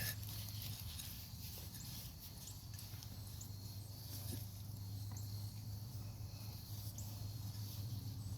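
Soft rustling and scraping of hands digging through loose potting soil in a grow bag, over a steady low hum, with a few short, faint high chirps.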